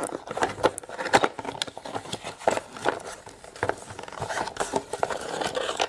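Plastic toy pieces and packaging being handled: a run of small clicks, taps and scrapes as the parts of a Play-Doh playset are set out.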